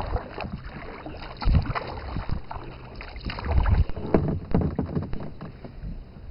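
Canoe paddling: paddle strokes splashing in the water, with irregular low thumps, the loudest about a second and a half in and again around three and a half to four seconds in.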